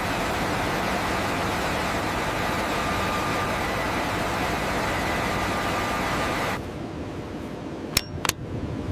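Steady machine-like rushing noise that cuts off abruptly about six and a half seconds in, followed by two sharp metallic clanks near the end.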